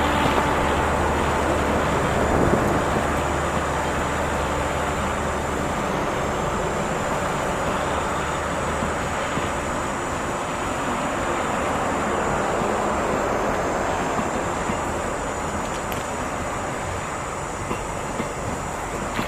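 A passenger train rolling slowly past on the track, a steady rumble of wheels and coaches. A low diesel locomotive hum fades out in the first several seconds as the engine pulls away.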